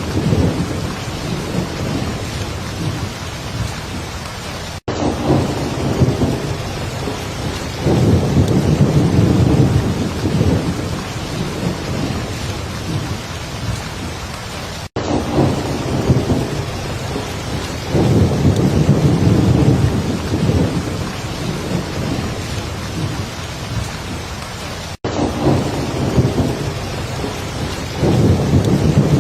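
Heavy rain falling steadily with low rolling thunder that swells and fades every few seconds. It is a looped recording, with a brief dropout about every ten seconds.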